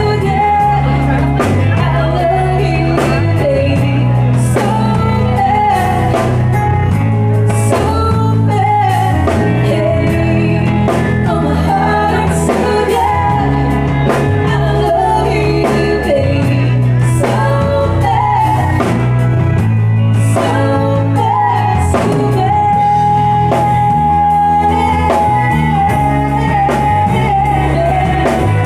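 Live band playing a song: a lead singer's voice over guitar, bass and drum kit, the bass line stepping between notes under a steady drum beat.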